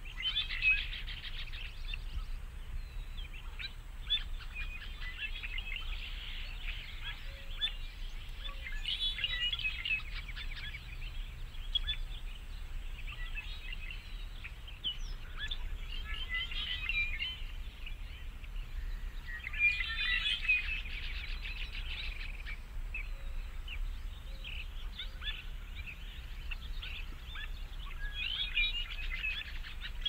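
Small birds chirping in rapid twittering bursts every few seconds, over a steady low hum.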